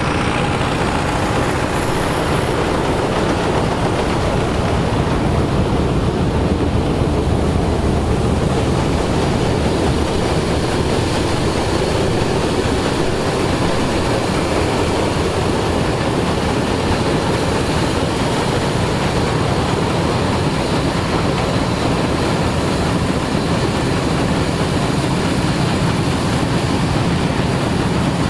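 Vintage farm machinery, a tractor or combine harvester, running steadily under load: a loud, even engine and mechanical noise that does not change in pitch.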